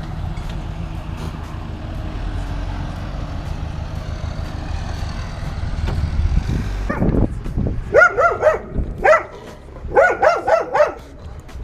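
A car engine runs with a steady low rumble. About seven seconds in, a dog starts barking, a quick series of loud barks in two runs.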